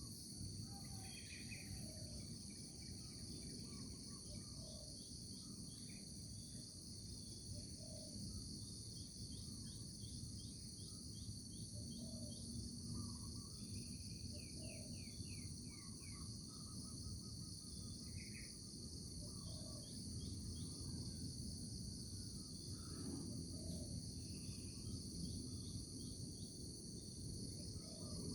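A steady chorus of insects trilling without a break, with scattered short bird calls and chirps over a low background rumble.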